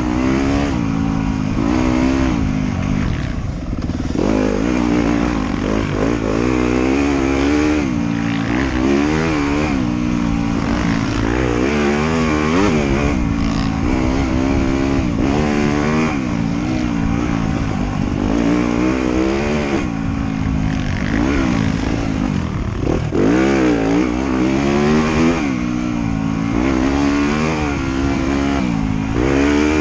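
Off-road motorcycle engine ridden on a trail, revving up and down constantly, its pitch rising and falling every second or two with the throttle.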